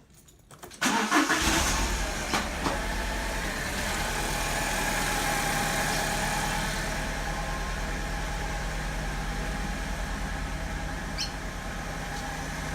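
A 2002 Alfa Romeo 147's 2.0 litre Twin Spark 16-valve four-cylinder starts a little under a second in, flares briefly, then settles to a steady idle. The engine has a misfire at idle, which the owner puts down to either the ignition or the valves.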